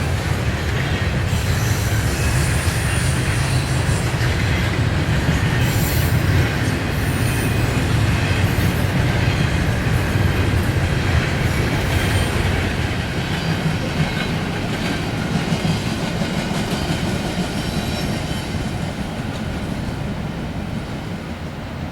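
Freight train cars of an intermodal train rolling past on the rails: a steady, loud rumble of wheels on track that slowly fades over the last several seconds.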